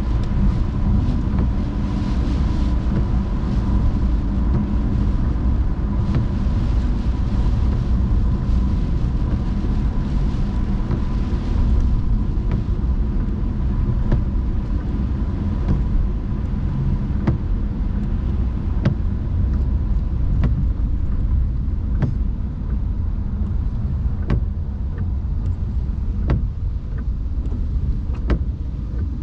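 A car driving in the rain: a steady low rumble of tyres and engine, with scattered sharp ticks that come more often in the second half.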